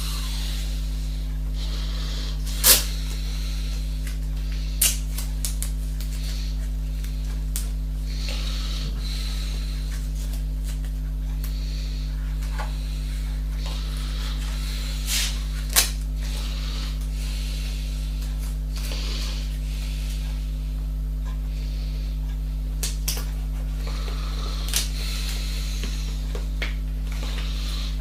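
Steady low electrical hum, with a faint hiss over it and scattered short sharp clicks and knocks, the loudest about three seconds in and again near sixteen seconds.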